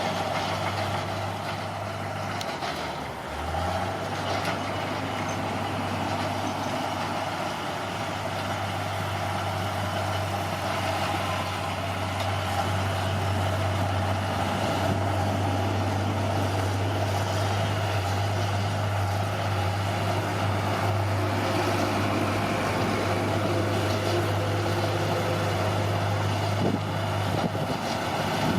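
Bulldozer's diesel engine running steadily. Its note dips briefly about three seconds in, then picks back up.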